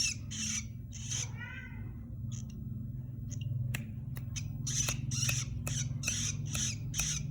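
Long-tailed shrike (cendet) giving short, harsh, raspy calls, coming about twice a second in the second half, with one brief pitched call about a second and a half in. A steady low hum runs underneath.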